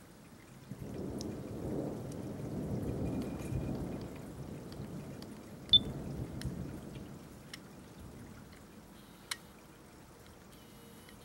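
Low rolling thunder that swells about a second in and fades away over several seconds. A sharp click near the middle and a few faint ticks, like drips, are heard over it.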